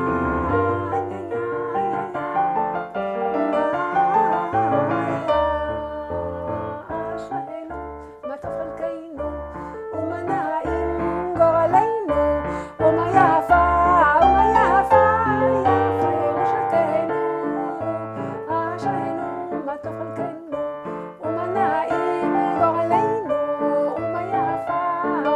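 Keyboard playing a slow nigun, a Hasidic wordless melody, with chords over low bass notes.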